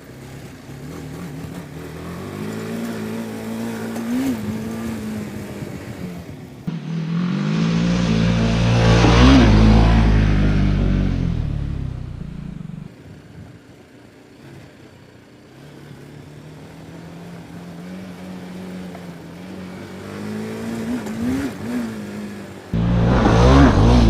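BMW G310 GS single-cylinder engine being ridden, its pitch rising and falling as the throttle is opened and eased off. The sound changes abruptly several times, loudest about 8 to 10 seconds in and again near the end.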